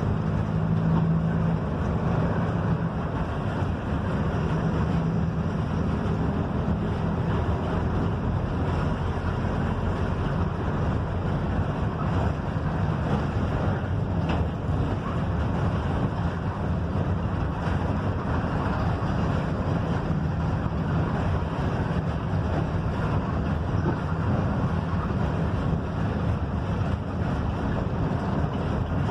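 Mercedes-Benz OF-1721 front-engined diesel bus on the move, heard from inside: a steady low engine drone under continuous road and wind noise.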